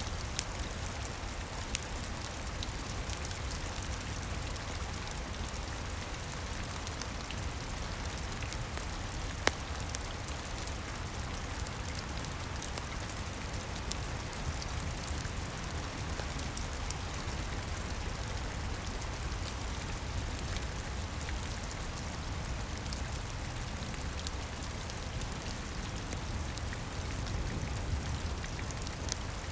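Steady rain falling on a roof, with a low rumble underneath and a few sharp crackles from a fireplace, one about nine seconds in.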